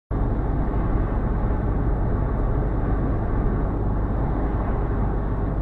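Steady engine and tyre noise of a moving car, heard from inside the cabin, starting abruptly a moment in.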